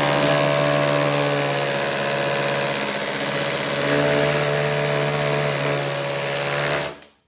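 Huepar 20V brushless cordless SDS hammer drill with a chisel bit hammering into a brick, running steadily and then stopping abruptly near the end. It is still in rotary-hammer mode rather than hammer-only.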